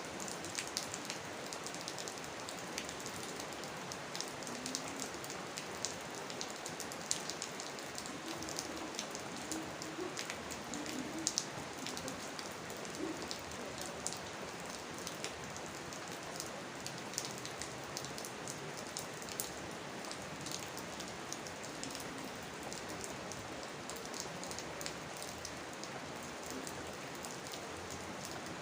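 Steady rain falling, with many close, sharp drop ticks over an even hiss.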